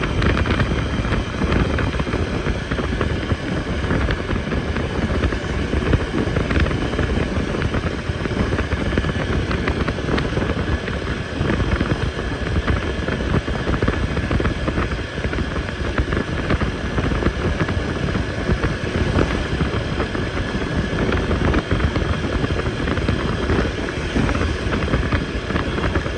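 TVS Apache RTR 160 4V motorcycle's single-cylinder engine running steadily while riding on the road, under heavy wind buffeting on the microphone.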